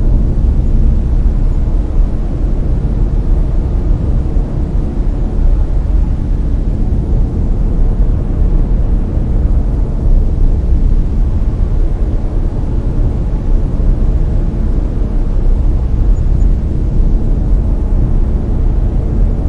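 Layered brown noise: a steady, deep hiss, strongest in the bass and fading toward the treble, with no changes or events.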